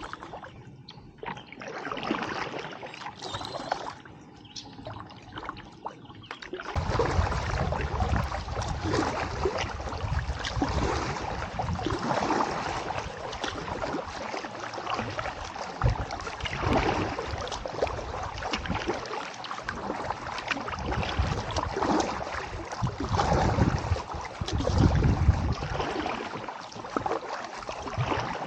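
Kayak paddling: paddle blades dipping and pulling through the water with splashing and dripping. It is quieter for the first several seconds, then grows louder with a low rumble and a swell every few seconds.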